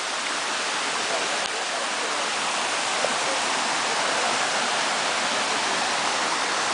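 Steady rush of flowing water, growing a little louder over a few seconds.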